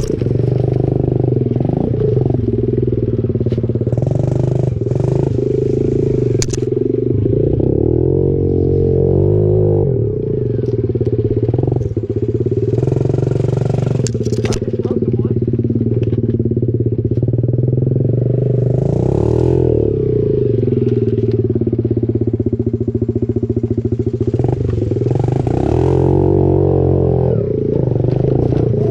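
Pit bike engine running continuously, its revs rising and falling several times, with a few sharp clicks and knocks over it.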